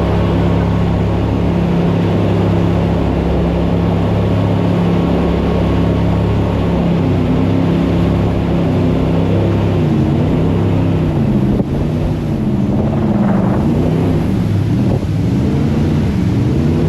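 Jet boat engine running hard at a steady pitch, then from about seven seconds in its pitch rises and falls repeatedly as the throttle is worked, over a steady rushing noise.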